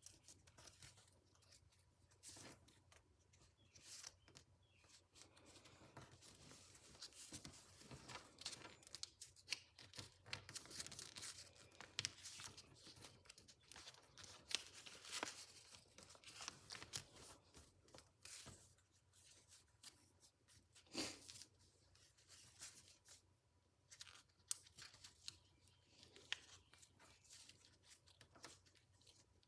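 Sheet of paper being folded and creased by hand: faint, irregular crinkling and rustling with short sharp creasing clicks, a few louder ones about a third of the way in, midway and about two-thirds through.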